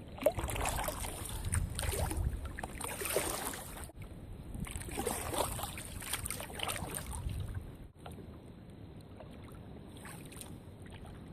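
Kayak out on choppy water in strong wind: wind buffeting the microphone in gusts and paddle splashes against the water. The sound breaks off abruptly about every four seconds, and the last few seconds are calmer.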